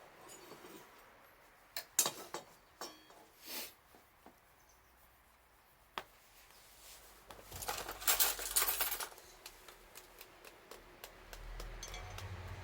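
Wood fire crackling: scattered sharp pops and snaps, with a denser spell of crackle and rustle about eight seconds in.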